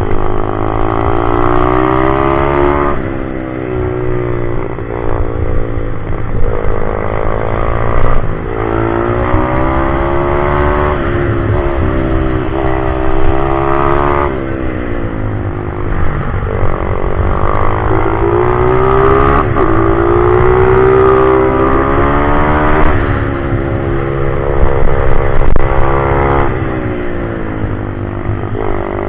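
Pit bike's single-cylinder four-stroke engine being ridden hard: the revs climb, drop sharply at gear changes and off-throttle, and climb again, over and over, with a steady low rumble underneath.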